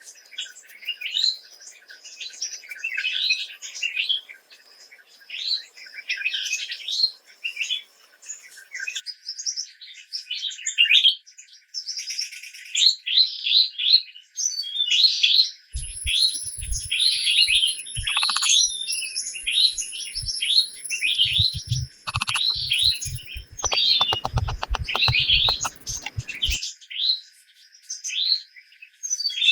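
Birds chirping busily and without pause, many short calls overlapping. From about halfway there are scattered low thumps, then a quick run of knocks for a couple of seconds near the end, with a thin high whine for several seconds.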